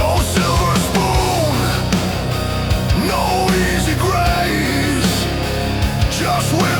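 Instrumental break in a hard rock song, with no vocals: a lead line of gliding, bending notes over steady bass and drum hits.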